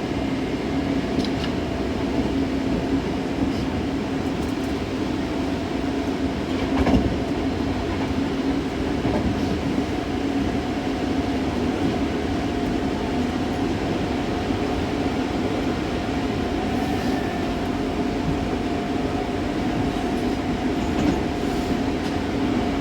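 Hankyu 6000 series electric train heard from inside the car, running at speed: a steady traction-motor hum over the rumble of wheels on rail, with a single rail-joint clack about seven seconds in.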